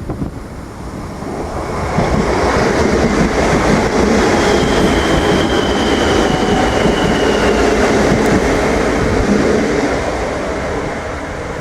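Irish Rail commuter train running past on the track: wheel and rail noise grows about two seconds in, holds, and eases toward the end. A thin high wheel squeal sounds for about three seconds from around four seconds in.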